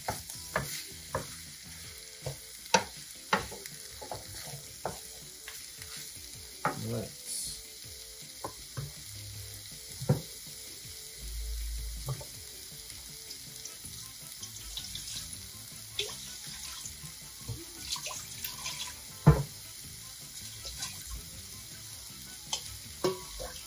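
Curry-seasoned chicken wings sizzling steadily in a stainless steel sauté pan, with a wooden spoon stirring and knocking against the pan in the first few seconds. Scattered clicks and pops run through the sizzle, with one sharp knock about two-thirds of the way in.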